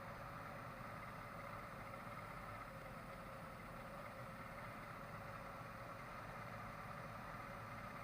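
A motor vessel's engines idling steadily, with a constant hum and an even low throb.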